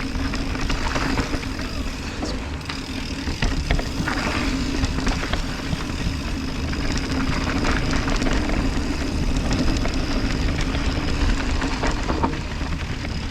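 Mountain bike rolling down a dirt trail: a steady rush of wind and tyre noise, broken by frequent small rattles and knocks from the bike over bumps.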